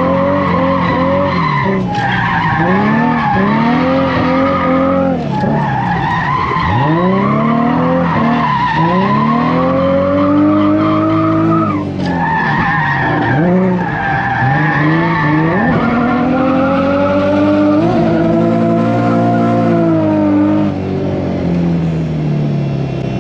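Turbocharged Nissan VQ V6 drift car revving hard, its pitch climbing and dropping again and again as the throttle is worked, over continuous tire squeal from the sliding rear tires. The squeal stops about three quarters of the way through, and the engine winds down near the end.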